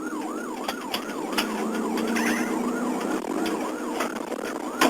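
Police car siren on a fast yelp, rising and falling about three times a second, heard from inside the pursuing car, with the car's running noise beneath it. A sharp click sounds near the end.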